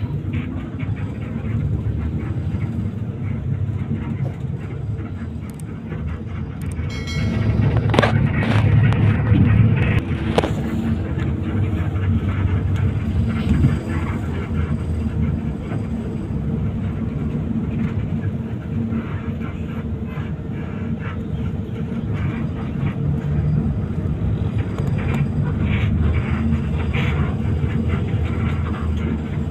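Intercity coach bus on the move: a steady low engine and road rumble, with a louder passage about eight seconds in.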